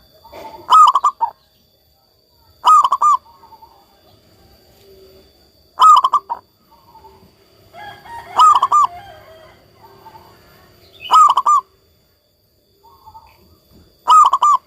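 Zebra dove (perkutut) cooing: a loud, short call repeated six times, about every two to three seconds.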